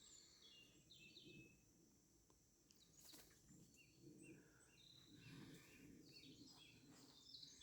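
Faint bird calls: short, high notes repeated at irregular intervals from a bird in bamboo, which the filmer hears as a bird that has been upset.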